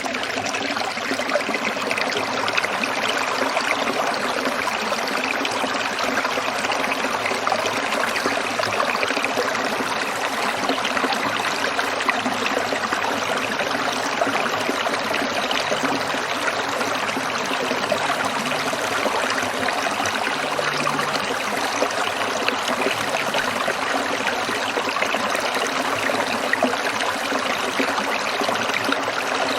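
A stream trickling and splashing steadily over stones.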